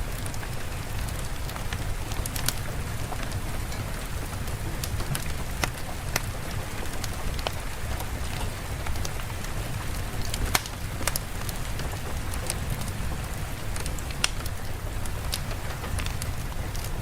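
Steady rain: a continuous hiss over a low rumble, with scattered sharp ticks.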